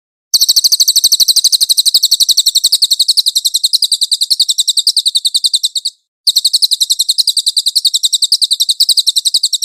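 Cililin bird singing a loud, fast, high-pitched trill of about ten notes a second, with one short break about six seconds in.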